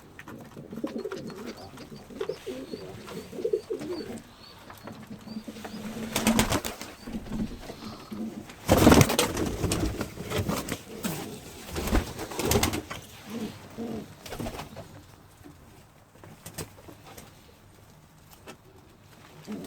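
Pigeons cooing, low and repeated, with a stretch of loud scuffling noises in the middle that dies away toward the end.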